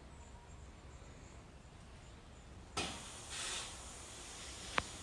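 Faint outdoor background noise with a low rumble. About three seconds in, it jumps abruptly to a louder, steady hiss, and a single sharp click comes near the end.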